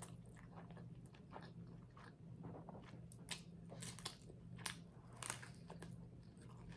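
Close-up chewing of crunchy garlic bread: irregular crisp crunches, a few louder than the rest, over a low steady hum.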